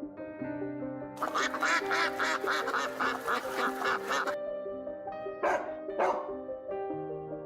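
Background music with a run of rapid duck quacks lasting about three seconds, followed by two short sharp calls.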